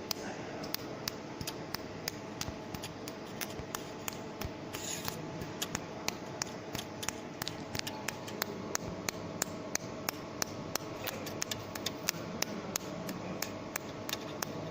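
Handheld fiber laser welding steel: a run of sharp, irregular crackling pops, about three or four a second, over the laser machine's steady hum.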